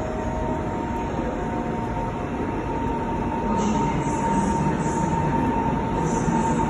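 A passenger train running through the station, a steady rumble with a thin high whine from the wheels that grows louder in the second half, joined by a hiss about halfway in.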